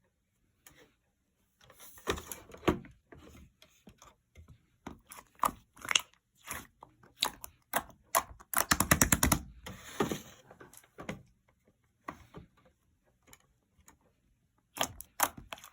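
Slime being squished and pressed by hand, making irregular sticky clicks and crackles with short quiet gaps. A dense run of rapid clicking pops comes about nine seconds in.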